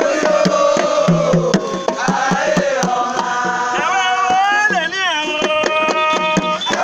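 Singing voices chanting a melody over steady hand-drum percussion, with gliding, wavering sung notes about two-thirds of the way through.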